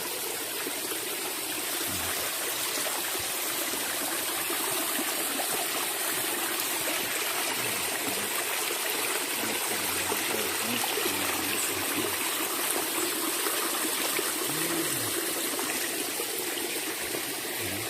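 Steady running water of a small waterfall and stream flowing over rocks, a continuous even rush.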